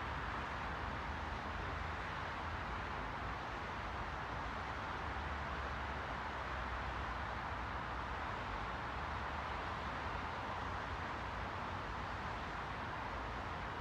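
Steady, unchanging white-noise hiss, strongest in the middle range, with a low rumble underneath and no breaks or distinct events.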